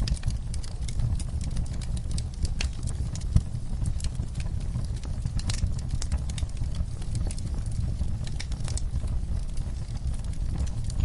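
Wood fire crackling in a fireplace: irregular sharp pops and snaps over a low steady rumble, with one louder pop about three seconds in.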